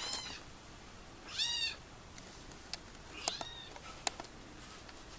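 Kitten meowing: three short, high-pitched meows, each rising and falling in pitch, the middle one the loudest. A few sharp clicks fall between and after the later meows.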